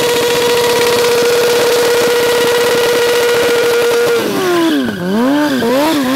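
Motorcycle engine held at steady high revs, then, about four seconds in, the revs drop and swing up and down several times as the throttle is worked.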